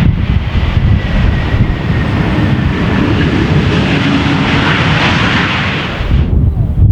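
Jet airliner engine noise mixed with heavy wind buffeting on the microphone. The engines' hiss swells and then drops away abruptly about six seconds in, leaving the wind rumble.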